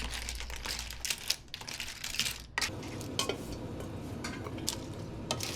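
Dishes and cutlery clinking in a run of small sharp knocks and clicks. A low steady hum comes in about halfway through.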